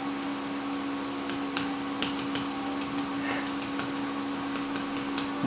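Steady electrical or appliance hum with a number of scattered short clicks and taps.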